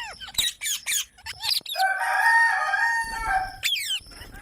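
Parrot calling: a run of sharp, quick falling screeches, then one long drawn-out call of about two seconds, then a few more sweeping screeches near the end.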